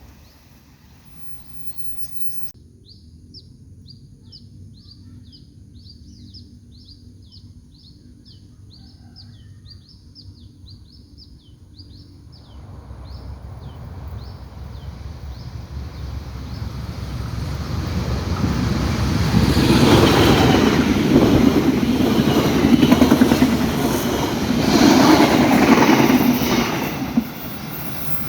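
A train approaching and passing close: its noise builds steadily from about twelve seconds in, peaks loud with a clattering rumble, then stops abruptly. Before it, a bird repeats a short, high, falling chirp about two or three times a second.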